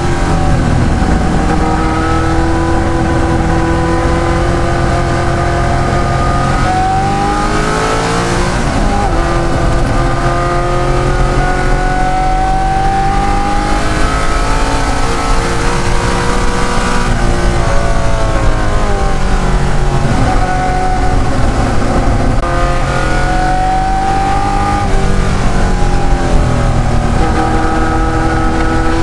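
De Tomaso Pantera's Ford V8 racing under full load, its pitch climbing steadily under acceleration and dropping away several times as it brakes and shifts.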